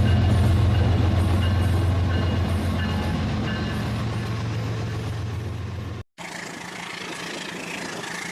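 Rail King toy train running, a steady loud motor hum with faint repeating high tones over it. About six seconds in the sound cuts out for a moment and a quieter, hissy sound follows.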